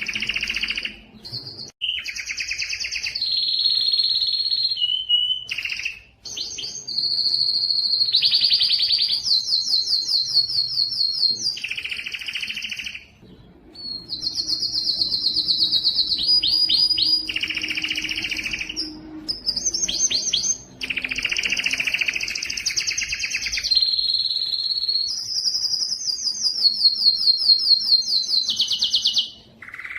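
Spanish Timbrado canary singing a long song of fast, rattling trills and rolls, changing pitch between phrases, with brief pauses about five times.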